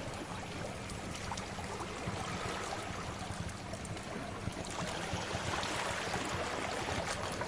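Steady wash of sea waves mixed with a wood fire crackling, its sharp pops coming every second or so.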